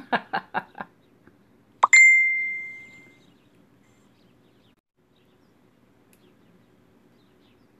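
A quick run of soft clicks, then a single bright bell-like ding that rings out and fades over about a second.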